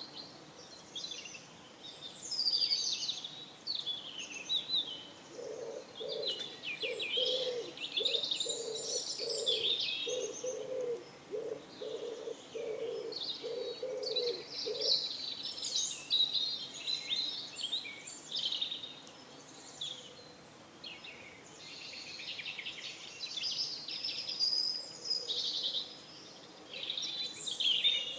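Songbirds chirping and singing throughout. From about five seconds in to about fifteen seconds in, a pigeon coos in a run of low, evenly spaced notes.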